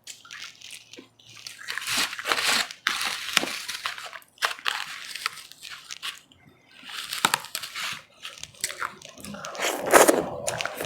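Close-miked crunching and chewing of powdery ice, in four bouts of crisp crackling with short pauses between them. The last bout is the loudest.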